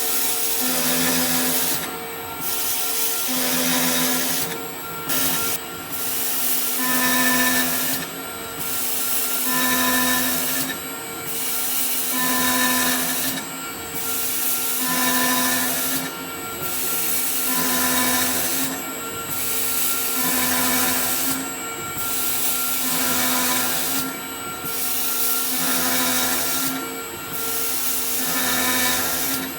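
CNC drilling and milling machine working an aluminium profile. The spindles cut with a loud, steady hiss that breaks off briefly about every two and a half seconds between operations, and a low hum rises and falls with each cycle.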